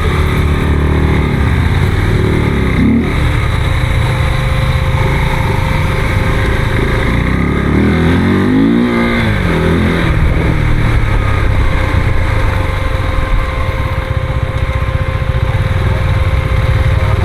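Motorcycle engine running under way with heavy wind rush, the engine note rising and falling about eight to ten seconds in as the rider works the throttle.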